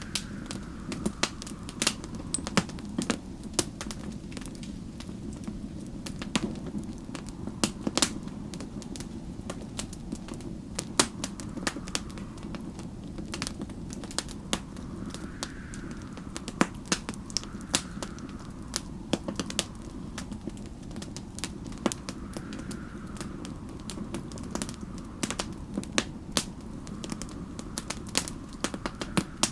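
Wood fire crackling, with frequent irregular sharp pops and snaps over a steady low rumble. Faintly behind it, snowstorm wind howls in slow swells that rise and fall every few seconds.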